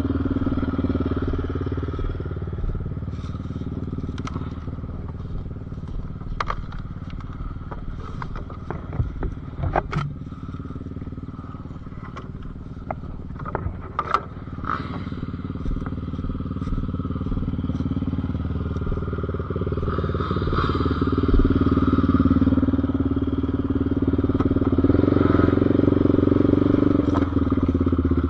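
Off-road vehicle engine running through a ride. It eases back for a stretch near the middle and builds up again in the second half, with scattered sharp clicks and knocks in between.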